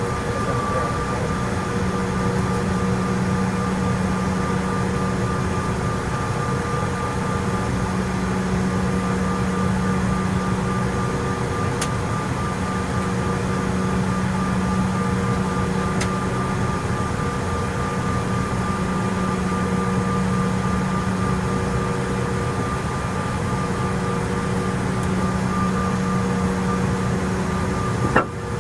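Steady cabin hum inside a Bombardier CRJ-900 regional jet on the ground, the idling engines and air-conditioning giving an even rush with a few constant whining tones. A brief click near the end.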